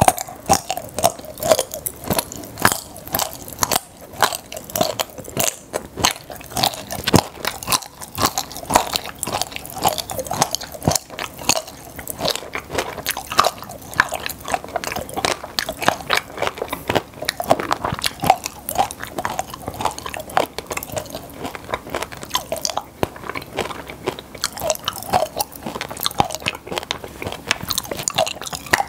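Close-miked chewing and crunching of popping-candy chocolate, with a dense crackle of many small pops.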